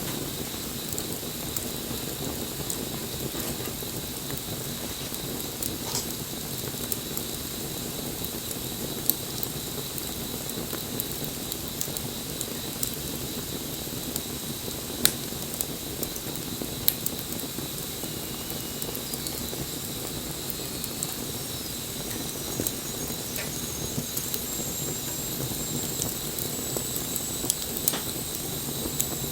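Wood campfire burning steadily, with occasional sharp pops and crackles from the burning wood, the loudest about halfway through.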